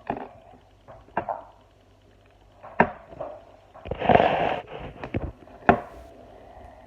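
Handling noises: three or four sharp clicks or knocks, and a short rushing noise about four seconds in.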